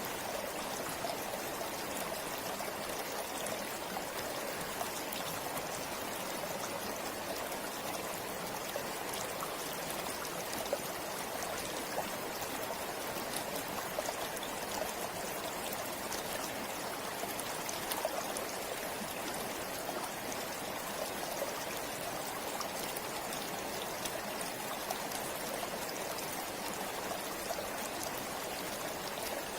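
Forest river or stream flowing steadily over rocks, a constant rush of water with small splashes and trickles.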